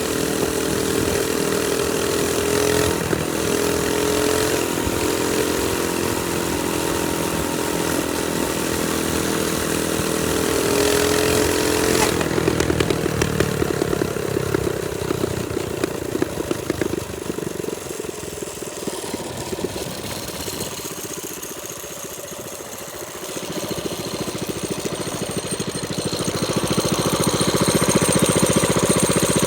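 Trailmaster Storm 200 minibike's small single-cylinder engine running under way at high revs, then easing off about twelve seconds in and dropping to near idle, before revving back up near the end.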